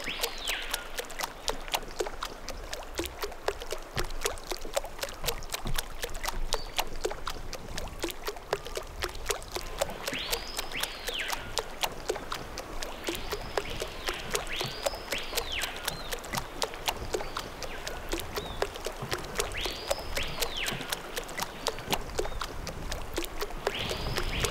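A bird repeating a whistled call that rises steeply and falls back, about seven times at irregular intervals, over a steady dense crackle of clicks.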